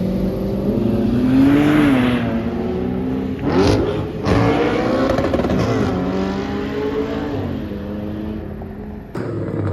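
A car engine revving: its pitch climbs and falls back several times, with a sharp loud burst about three and a half seconds in.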